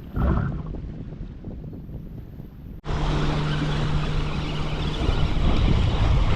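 Strong wind buffeting the microphone. A little under three seconds in, the sound cuts abruptly to a louder, denser rush of wind noise with a steady low hum under it.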